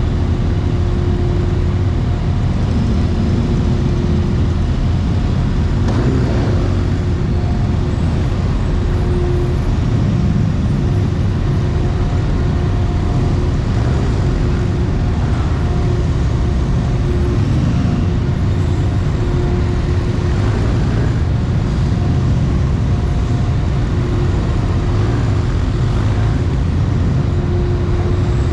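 Steady low rumble of motor vehicle engines running, with a faint humming tone that comes and goes.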